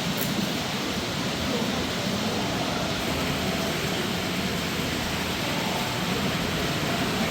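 Steady murmur of a crowd talking indistinctly over a constant hiss.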